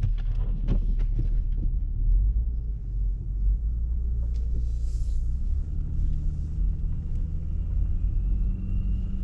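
Car being driven: a steady low rumble of engine and road noise, with a few clicks in the first second or so and a faint rising whine near the end.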